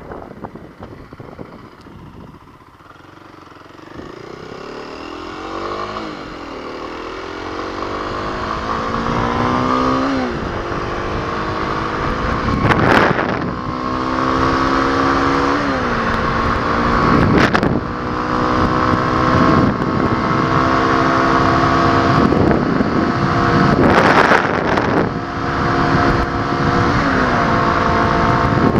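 2021 Kawasaki KLX250's single-cylinder four-stroke engine accelerating through the gears: its pitch climbs and then drops back at each of several upshifts, getting louder as speed builds. Wind rushes over the microphone, with a few brief gusts.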